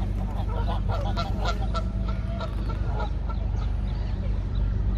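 Several waterbirds calling: a quick flurry of short honking calls in the first three seconds, thinning out afterwards, over a steady low rumble.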